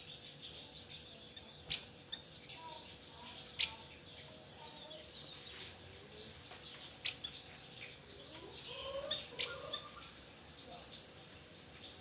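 Javan grey-throated white-eye (opior Jawa) calling: scattered sharp, high chirps a second or two apart, with a short run of lower warbling notes around the ninth second.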